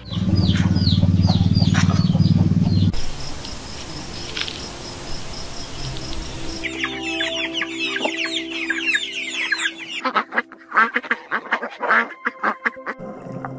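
A run of short animal clips: a domestic hen clucking for the first few seconds, then a dense chorus of songbirds chirping, then Canada geese and their goslings calling in short choppy notes near the end.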